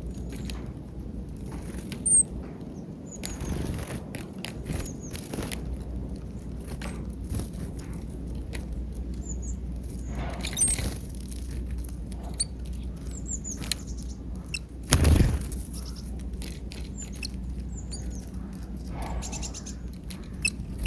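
Small birds feeding on peanuts at a feeder: a scatter of quick pecking taps and clicks, with brief high chirps now and then. About fifteen seconds in there is a louder burst of noise lasting about a second.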